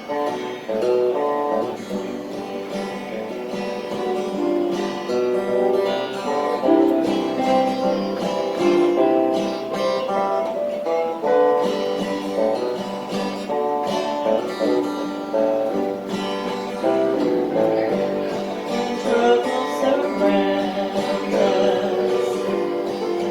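Acoustic guitar playing chords, a steady stream of plucked and strummed notes changing every second or so.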